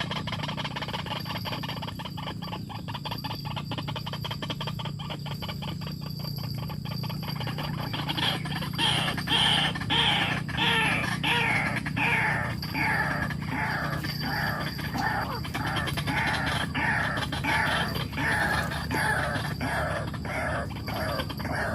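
A bird calling over and over in harsh, falling notes, about two a second, starting about eight seconds in. Before that there is a fast run of clicks, and a steady low hum lies under it all.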